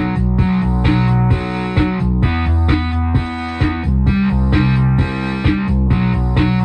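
Korg MS-20 analog synthesizer playing a gritty, buzzy repeating pattern of notes, pulsing about twice a second over a sustained bass line that drops lower about two seconds in and comes back up around four seconds.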